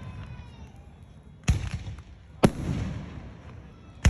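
Aerial fireworks bursting: two sharp bangs about a second apart, each followed by a rolling rumble, and another bang just at the end.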